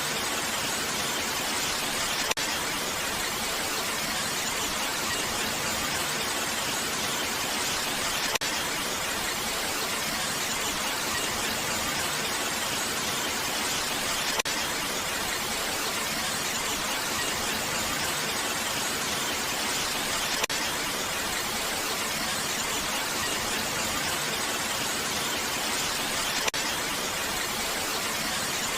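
Steady, even rain noise with a hissy, bright character, broken by a faint click about every six seconds.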